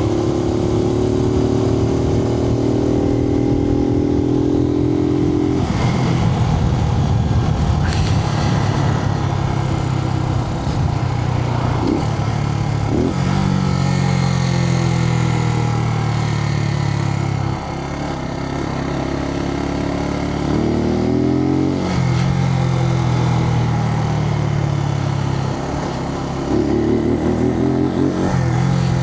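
Suzuki TU250X's single-cylinder engine running under way, heard from inside the rider's helmet over wind noise. The engine note shifts in pitch several times, with short dips in level about two thirds of the way through and again near the end.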